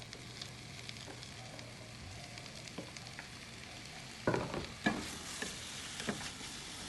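Shiitake mushrooms sizzling in hot oil in a frying pan while being stirred, with a few louder knocks and scrapes of the utensil against the pan about four to six seconds in.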